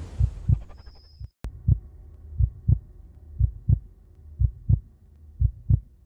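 Heartbeat sound effect: low double thumps, lub-dub, about one pair a second. A whoosh fades out at the start, and a single sharp click sounds about one and a half seconds in.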